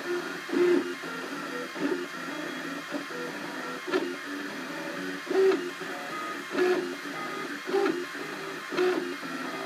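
Cubify 3D printer running during a print. Its stepper motors whine in short pitched bursts about once a second as the print head moves back and forth, over a steady mechanical hum.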